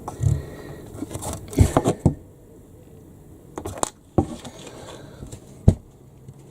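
Irregular knocks, taps and scrapes of timber and nails being handled, with a cluster of sharp knocks about two seconds in and single knocks later on.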